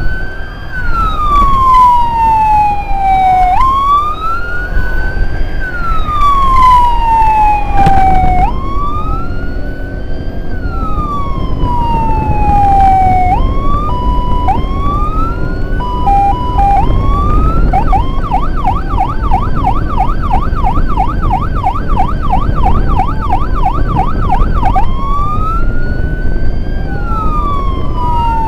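Emergency escort siren sounding over road and engine rumble. It gives a slow wail that rises and falls about every four to five seconds, then a few short steady tones around the middle, then a fast warble of about four cycles a second for several seconds, then goes back to the slow wail.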